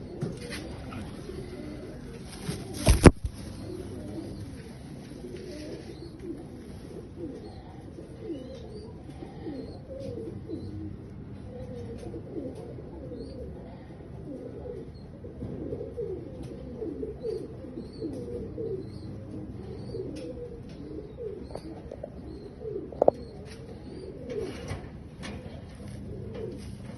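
Fancy domestic pigeons cooing, many short overlapping coos throughout. A single sharp knock about three seconds in, and a smaller one near the end.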